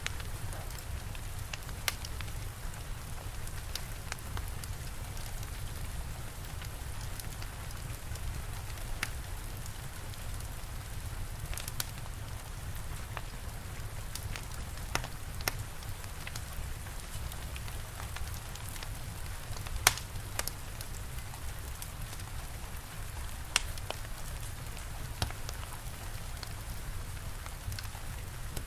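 Steady rain with a low rumble underneath, and a fire crackling in sharp, irregular pops, the loudest a little past two-thirds of the way through.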